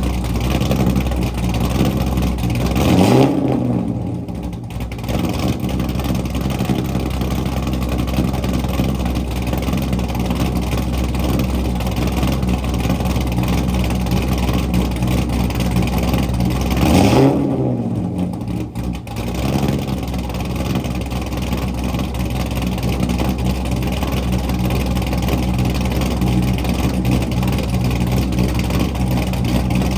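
Chevrolet Corvette C6 Z06's 7.0-litre LS7 V8, cammed and straight-piped with long-tube headers and no mufflers, idling loudly and revved briefly twice, a few seconds in and again a little past halfway, the pitch rising and falling back to idle each time.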